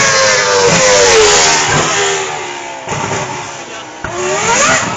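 Red Bull Formula 1 car's engine at high revs: a high-pitched note that falls in pitch over the first two seconds, drops away, then climbs sharply again near the end as the car revs back up.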